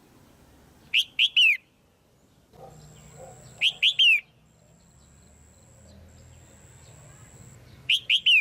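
Female red-whiskered bulbul calling: three loud, short phrases, each of three quick notes falling in pitch, about a second in, near four seconds and again near the end.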